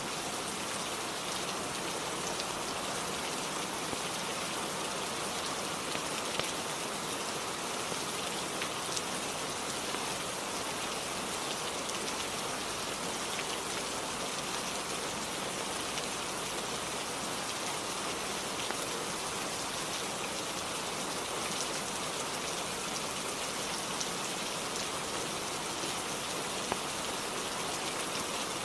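Steady rainfall, an even hiss with scattered sharp drop ticks.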